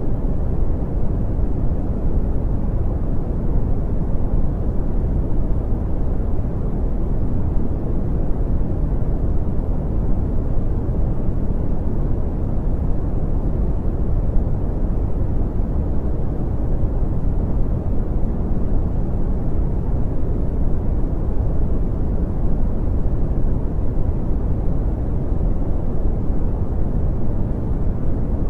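Brown noise: a steady, deep rumbling hiss, strongest in the lows and rolling off in the highs, with no change or events.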